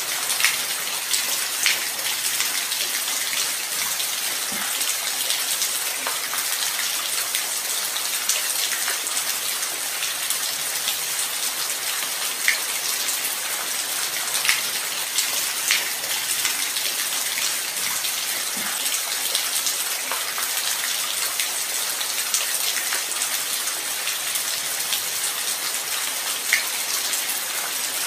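Steady light rain: an even hiss with single drops ticking here and there.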